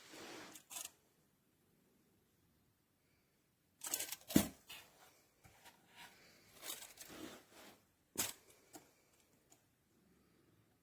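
Irregular bursts of rustling handling noise with sharp clicks. The loudest click comes about four seconds in and another about eight seconds in, with short quiet gaps between.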